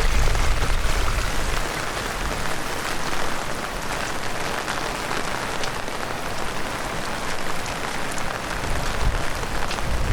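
Heavy rain pouring down: a dense hiss of falling drops with scattered sharper drop ticks. A low rumble lies under it for the first second or so and returns near the end.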